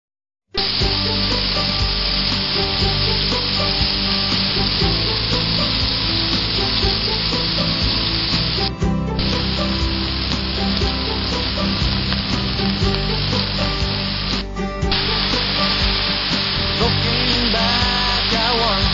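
Food sizzling and frying in a hot pan, a steady hiss with two brief breaks about nine and fifteen seconds in. Music starts to come in near the end.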